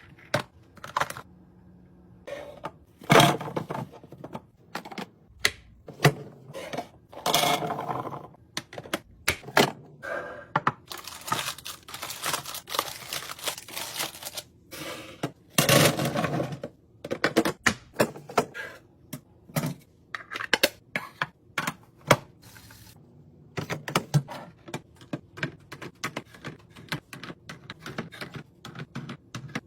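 Many sharp clicks, taps and knocks of drinks containers being handled and set onto fridge shelves, with a few longer scraping or rustling stretches.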